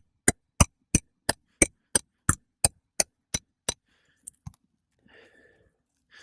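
Hammer driving roofing nails into a replacement asphalt shingle: a steady run of about three sharp strikes a second that stops a little under four seconds in, followed by two lighter taps.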